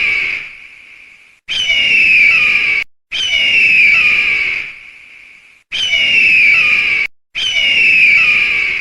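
A shrill animal call with a falling pitch, repeated about five times in quick succession. Each call lasts about a second and a half and cuts off abruptly.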